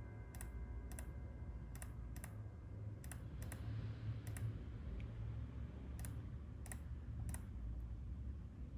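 Scattered single clicks of a computer mouse and keyboard, about eleven with uneven gaps, over a low steady hum.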